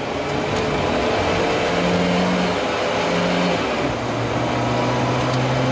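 Volvo 740 rally car's engine running hard as it drives, heard from inside the cabin over tyre and road noise. The engine note shifts up and down a couple of times in the middle as the revs change.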